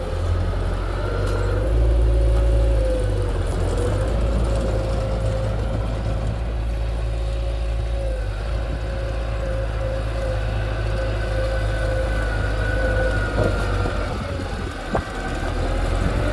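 Heavy machinery engine running steadily with a low rumble and a whine that shifts slightly in pitch now and then, from the dump truck or the mini bulldozer at work.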